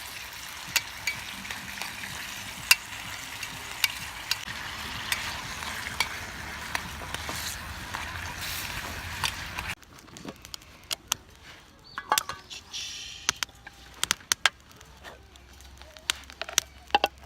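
Ginger pork sizzling as it fries in a pan, with frequent sharp clicks of a utensil against the pan as it is stirred. About ten seconds in the sizzle cuts off abruptly, leaving a quieter stretch of scattered sharp clicks and taps.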